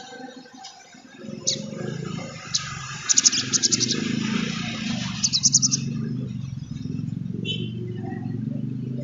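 Sogon trotol sunbird calling: a couple of sharp, high single chips, then two fast trills of high ticking notes a couple of seconds apart, over a steady low rumble.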